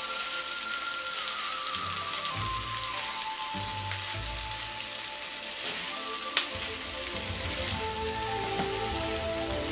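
Pork bulgogi with onions and scallions sizzling in a frying pan while being stir-fried, a steady crackling hiss. A single sharp knock of the utensil on the pan comes about six and a half seconds in.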